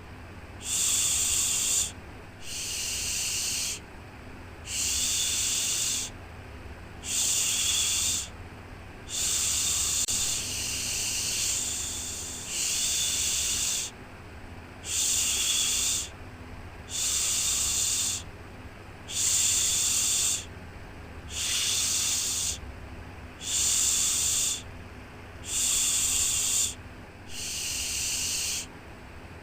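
Repeated soothing 'shhh' shushing sound for a baby, each shush about a second long and coming about once every two seconds in an even rhythm, with a faint steady low hum underneath.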